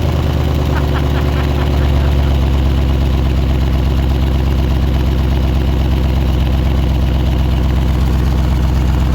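Ford F-150 pickup's engine idling with its exhaust cut off, a loud steady low rumble.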